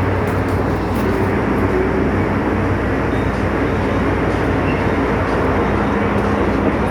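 MTR M-train electric multiple unit running steadily between stations, heard inside the passenger car: an even rumble of the train in motion with a few steady hums underneath.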